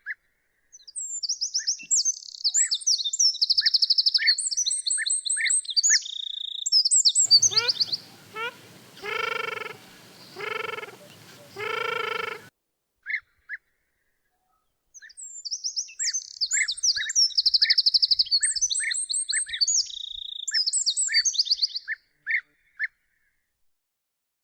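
Songbird song: two long phrases of fast, high trills mixed with short lower notes, separated by a gap. In the gap come three short, deeper calls about a second and a half apart, over a faint hiss.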